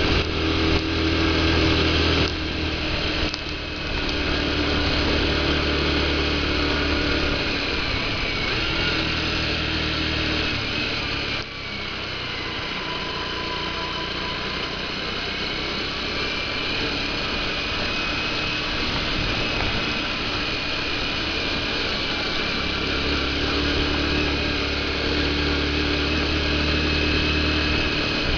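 Motorcycle engine running under way, its note shifting several times, with a brief dip about eleven seconds in.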